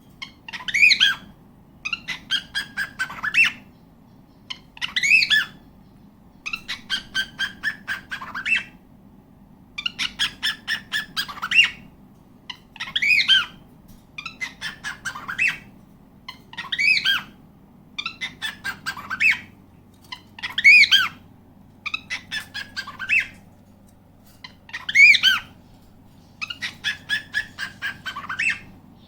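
Cockatiel calling in a repeated pattern: short phrases of rapid chattering notes, each carrying a loud call that rises and falls in pitch, coming about every two seconds.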